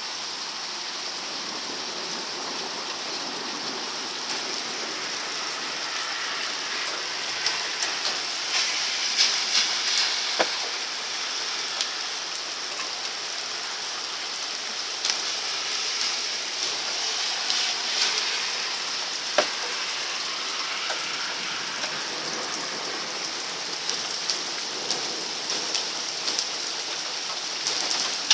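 Heavy rain pouring steadily: a dense hiss of drops hitting surfaces, with many sharper single taps scattered through it.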